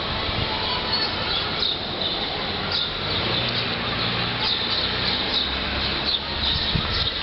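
Outdoor ambience: birds chirping in short high calls over a steady noisy hiss and a low rumble, like distant traffic, that swells through the middle.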